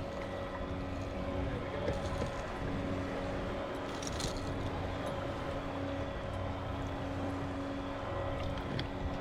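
Bixpy electric kayak motor running in reverse, a steady hum with several constant tones over water noise.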